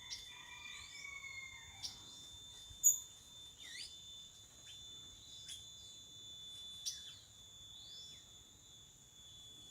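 Assorted wild birds chirping, with short sliding notes scattered throughout and a lower call in the first two seconds, over a steady high-pitched chorus of crickets or other insects. A sharp click about three seconds in.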